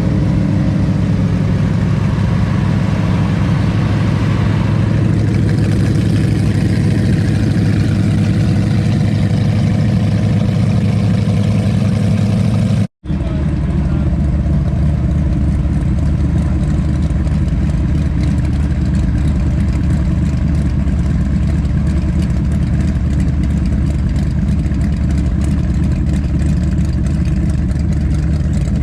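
Twin big-block V8 inboard engines of a powerboat idling steadily while warming up. The sound breaks off for a moment about halfway, then resumes unchanged.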